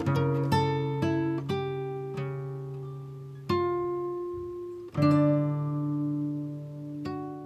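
Acoustic guitar music: plucked notes and picked chords that ring and fade, with a quick run of notes at the start and two held chords struck later.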